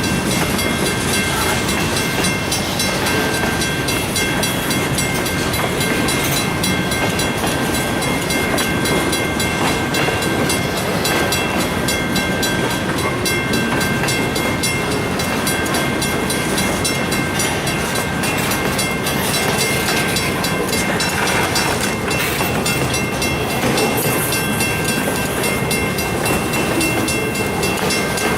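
A freight train's cars rolling steadily past, wheels running on the rails, with a few thin steady high tones over the noise.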